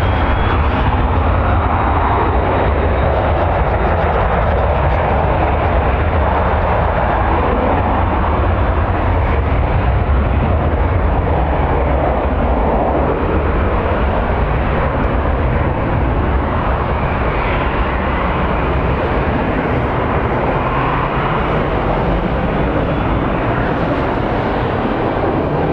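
Steady jet airliner engine noise mixed with strong gusting wind rushing over the microphone, with a deep rumble that eases after the first half and a faint high whine.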